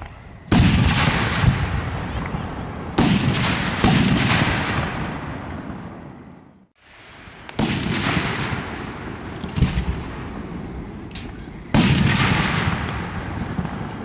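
Aerial fireworks shells bursting: about six sudden booms, each trailing off over a second or two. The sound drops out for an instant just past the middle.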